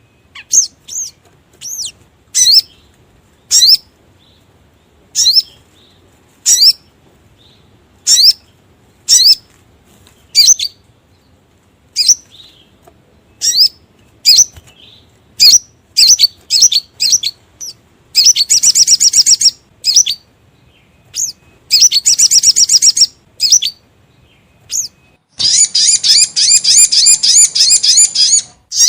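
Recorded lure calls of the sogok ontong (little spiderhunter): sharp, high single chirps about once a second, then in the second half bursts of rapid high chattering trills lasting two to three seconds, the longest near the end.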